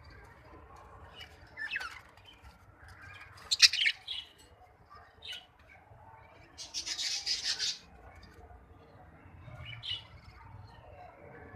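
Pet budgerigars chirping and squawking in short, scattered calls. The loudest call comes about three and a half seconds in, and a denser run of calls lasts about a second just past the middle.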